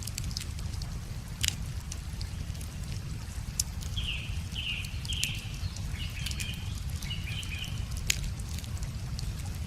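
Wood fire crackling with scattered sharp pops, over a steady low rush of river water. A bird sings a short run of quick chirping notes from about four seconds in.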